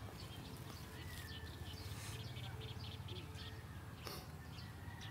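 Faint outdoor ambience: small birds chirping in short scattered calls, with a couple of brief thin whistles, over a steady low rumble.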